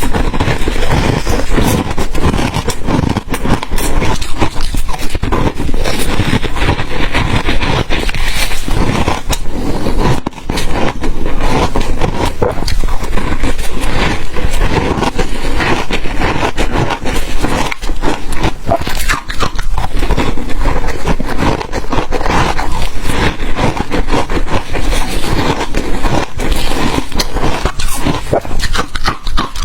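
Crunchy ice being bitten and chewed, a dense run of irregular crackling crunches that goes on with barely a pause.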